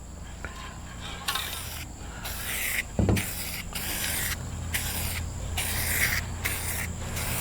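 Aerosol spray-paint can fired through a clip-on trigger handle in a string of short hissing bursts, about two a second, with a single knock about three seconds in.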